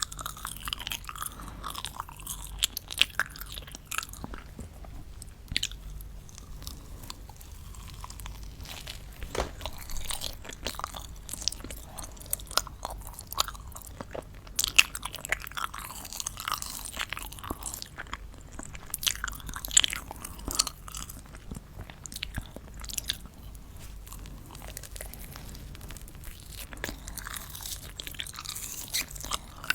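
Close-miked chewing and crunching of candy, with irregular crisp crunches and bites throughout.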